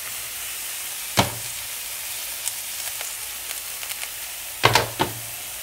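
Turkey-spinach burger patties sizzling in oil on a hot stainless steel grill pan, a steady hiss. A sharp metallic knock comes about a second in and a quick clatter of knocks near the end as the pan is tilted on the cooktop.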